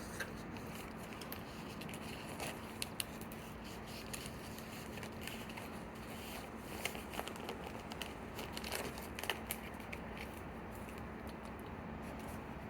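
Comic book being handled: faint paper and plastic rustling with scattered light clicks, over a steady low hum.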